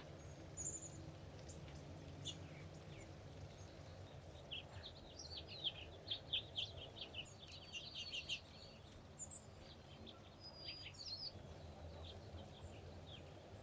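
Wild birds calling, with a quick run of sharp chirps through the middle and scattered single calls before and after, over a steady low background rumble.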